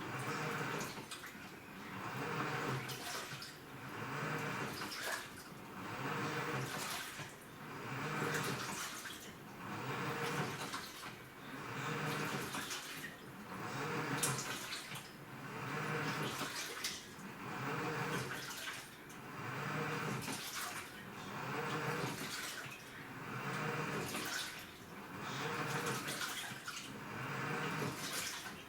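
Top-loading washing machine with a direct-drive inverter motor agitating laundry in water: the pulsator swishes the load back and forth in regular surges about every two seconds, each with a low motor hum.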